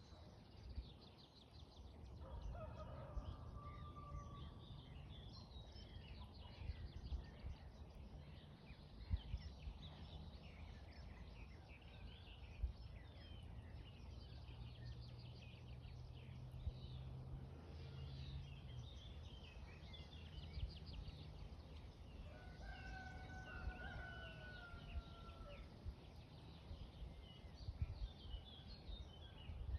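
Songbirds chirping and singing throughout, with a rooster crowing faintly twice, about three seconds in and again past twenty seconds. A low steady hum and a few dull knocks sit underneath.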